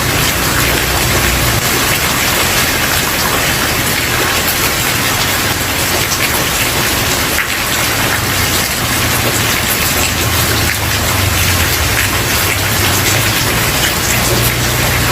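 Steady, dense rain falling on a wooden porch: an even hiss with individual drops ticking through it, over a low rumble that swells and fades.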